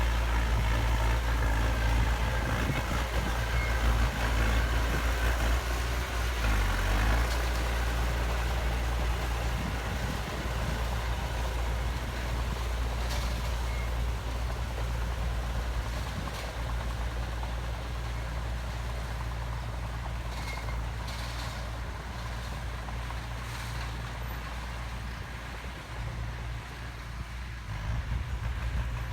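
Heavy diesel construction machinery running with a deep, steady engine rumble. It is loudest in the first third and slowly grows quieter, then rises briefly again near the end.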